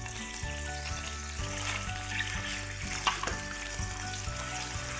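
Prawn tails and a freshly added sofrito of red and green pepper, onion and tomato sizzling in hot prawn oil in a pan, under background music.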